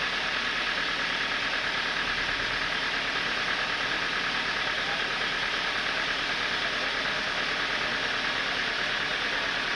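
Sawmill machinery running steadily: a continuous mechanical noise with a bright, high band in it, holding an even level throughout.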